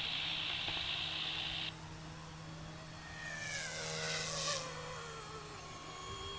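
Small electric RC helicopter's motor and rotors running steadily in flight, with tones that glide downward in pitch midway. A burst of hiss in the first second and a half is the loudest part, and a higher hiss follows about four seconds in.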